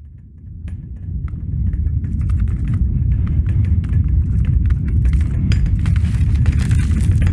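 Earthquake sound effect: a deep rumble that builds up over about two seconds and then holds loud, with clinking and rattling clicks scattered on top.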